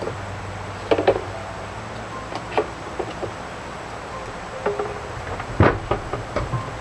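Scattered light knocks and clicks over a steady low hiss, with the loudest knock a little under six seconds in.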